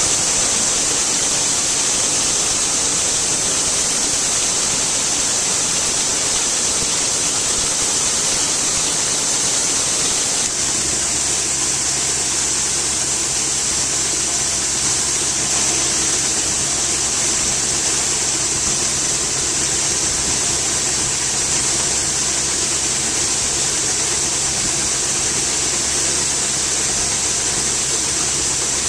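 Harvest-field machinery running: a steady high hiss, joined about ten seconds in by a low, steady engine drone that holds to the end.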